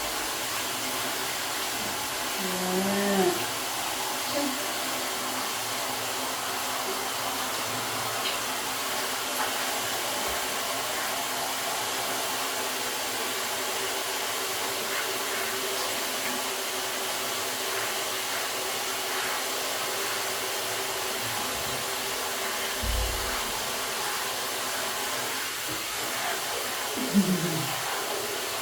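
Warm water running steadily from a bathroom tap or shower, filling a basin, with an even rushing hiss.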